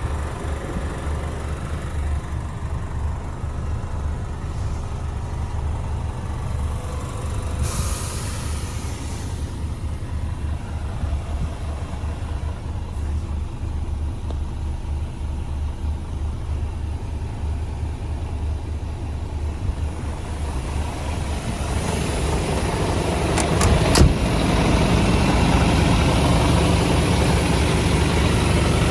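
Scania P230 truck's diesel engine running steadily, with a short burst of hiss about eight seconds in. Over the last several seconds the engine grows louder, with a few sharp clicks as it does.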